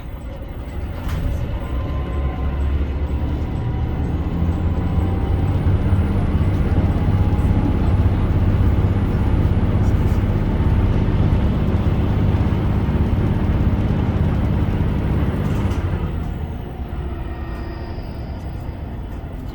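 Diesel engines of a HOT7000-series railcar running under power as the train pulls away and accelerates. A low engine drone builds over the first few seconds, then about sixteen seconds in the engine note drops back and a faint high whine falls away.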